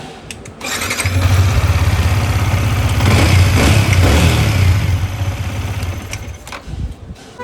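Yamaha R15 V3's 155 cc single-cylinder engine started about a second in, running with a brief rev around three to four seconds, then stopping near the end. It is the test run just after the valve clearances were reset to cure excess tappet noise.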